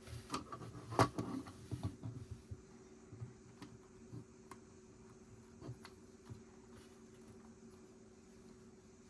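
Plastic Lego pieces being handled: a quick flurry of clicks and rattles in the first couple of seconds, then a few single clicks, over a faint steady hum.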